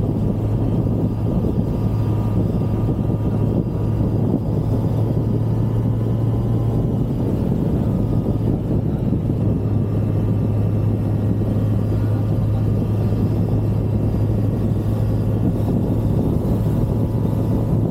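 Kawasaki Z900's inline-four engine pulling in sixth gear at about 3000–4000 rpm, a steady low hum over a rumbling road-and-wind noise. In this range the owner hears a low metallic buzz like a resonance, whose cause he does not know.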